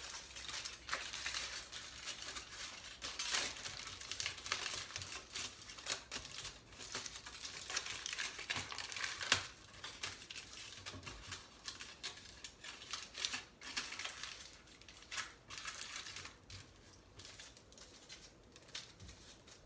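Aluminium tin foil crinkling and crackling as it is wrapped and pressed around a cardboard shape, an irregular run of crackles that grows fainter near the end.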